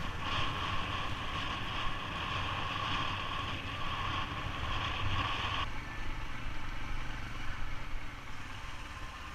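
A motorbike riding along, with its engine and wind rumbling on the microphone. For the first five or so seconds a steady high tone sounds over it, then cuts off suddenly.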